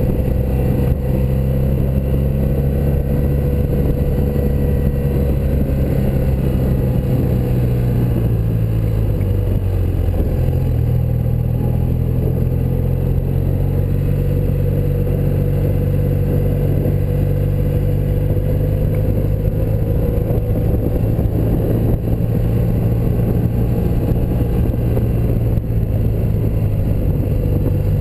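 1984 BMW R100RS air-cooled flat-twin motorcycle engine running under way, heard from on the bike. Its pitch drops about ten seconds in, then holds steady.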